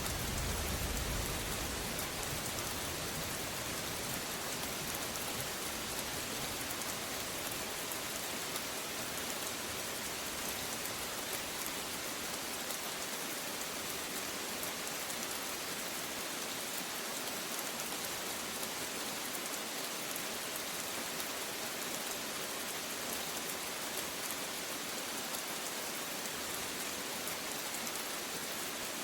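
Steady rain falling, an even hiss of drops on surfaces. A low rumble of thunder dies away in the first second or so.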